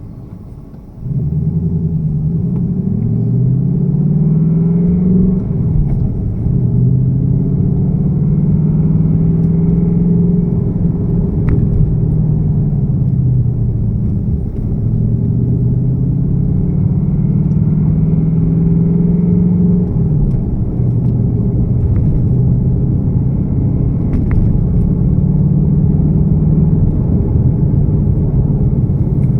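2018 Ford Mustang GT's 5.0-litre Coyote V8 catching about a second in and running at a cold-start idle whose pitch slowly rises and falls. The owner takes the engine's cold-start rattle for piston slap.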